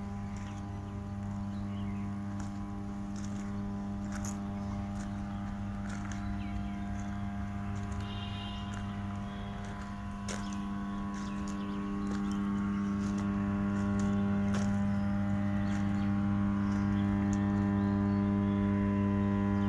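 220 kV, 50 MVA power transformer humming: a steady low hum with a stack of higher overtones, caused by magnetostriction of the transformer core. The hum grows louder about twelve seconds in.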